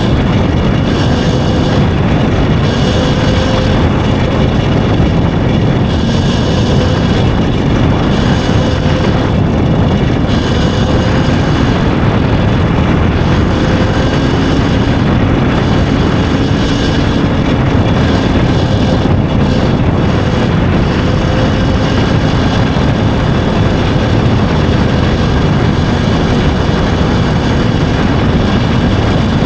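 Steady wind rush over the microphone while riding an electric dirt bike, with a faint wavering whine from the bike's motor under it.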